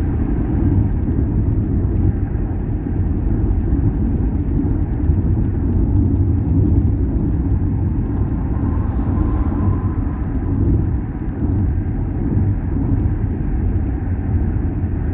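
A car driving on the road, with a steady low rumble of road and engine noise.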